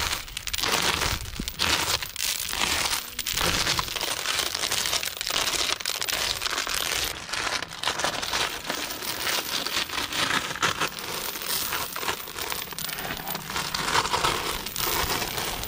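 Many screws being pulled off a motorcycle's bodywork by hand, making a continuous crinkling, rustling noise with scattered small clicks.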